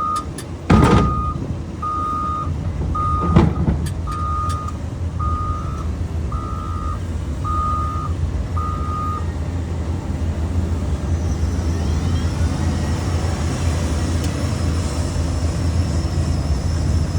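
Backup alarm of a reversing heavy machine beeping about once a second, stopping about nine seconds in, over a steady diesel engine rumble. Two sharp bangs sound about one second and three and a half seconds in.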